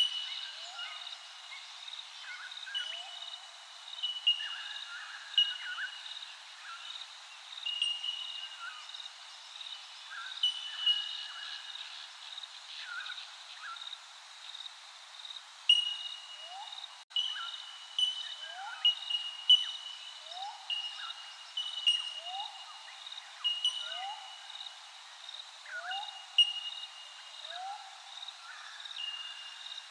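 Birds calling over and over: short steady high notes alternating with quick upward-sweeping chirps, several calls a second.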